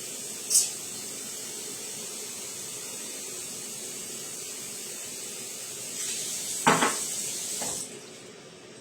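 Steady hiss, with a short high click about half a second in and a sharp knock or clatter near the end, followed by a weaker one; the hiss then drops away.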